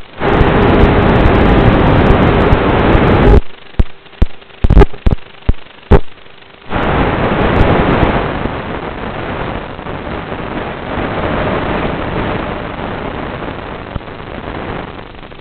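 Heavy wind rushing and buffeting against the microphone, cut off about three seconds in by a string of sharp knocks and thumps. The rushing noise then comes back and slowly dies down.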